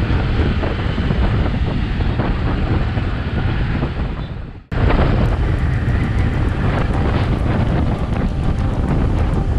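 Wind buffeting the microphone on a moving motorcycle, with the single-cylinder engine of a Royal Enfield Bullet 350 running underneath. About halfway through, the sound cuts out for an instant and then resumes.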